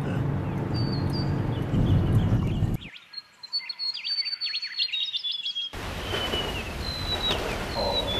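Birds calling: a string of whistled notes, some gliding down, and quick chirps. Under them runs a low rumble that cuts off suddenly just under three seconds in and comes back about three seconds later.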